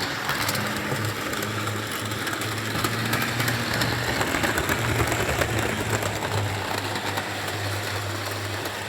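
Model train locomotives running along the track: a steady electric motor hum with small irregular clicks of wheels on the rails.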